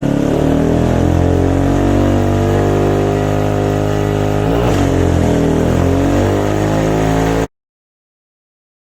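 Car engine running loudly and steadily, its pitch dipping and recovering briefly about halfway through, then cutting off abruptly about seven and a half seconds in.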